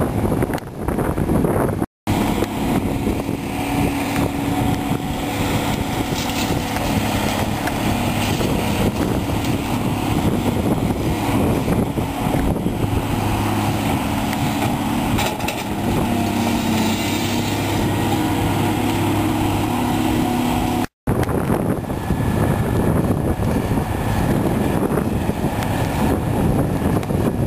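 Cat 345B hydraulic excavator's diesel engine running under load as it works, its pitch shifting as the load changes. The sound cuts out completely for an instant twice, about two seconds in and near the three-quarter mark.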